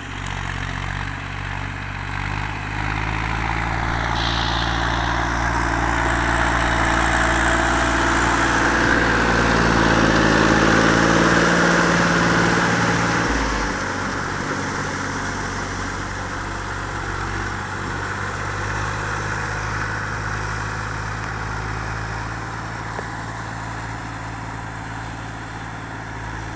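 Massey Ferguson 7250 tractor's diesel engine running steadily while pulling a rotavator through a puddled field. The engine note builds and is loudest through the middle, then eases back about halfway through.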